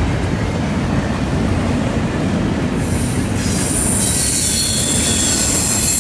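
Double-stack container well cars of a freight train rolling past with a steady rumble. About halfway through, a high-pitched wheel squeal rises above it: flange squeal as the wheels take the curve.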